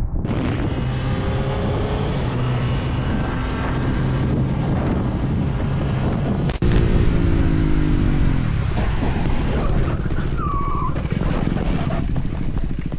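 A motorcycle engine running under way over wind rush on the microphone, its pitch rising and falling with the throttle. About halfway through, the sound cuts abruptly to another ride recording with a similar engine-and-wind sound.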